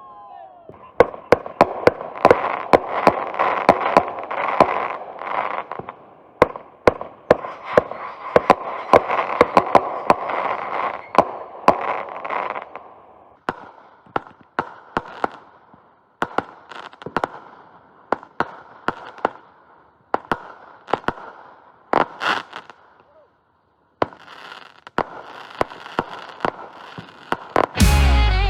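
Consumer fireworks going off in a rapid barrage of sharp bangs with crackling, dense for the first half and then thinning to scattered single reports. Music starts right at the end.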